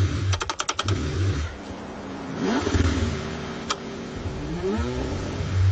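Car engine being cranked in the cold, struggling to start: a low rumble with a quick run of rattling clicks about half a second in, and a couple of short whines that rise and fall in pitch.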